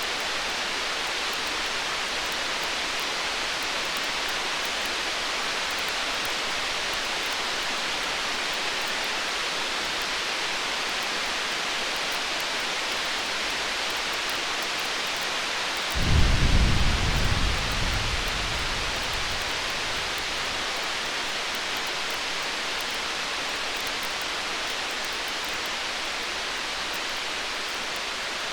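A steady hiss of storm rain, with faint crackles of a campfire. About sixteen seconds in, a rumble of distant thunder swells and dies away over about three seconds.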